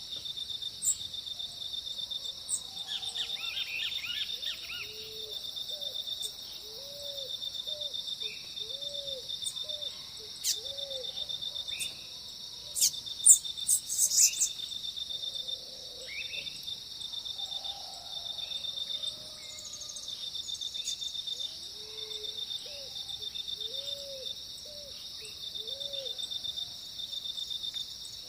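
Dawn chorus of birds over a continuous high insect trill, with two runs of low, rounded notes repeated about every half second and scattered higher chirps. A few sharp clicks about halfway through are the loudest sounds.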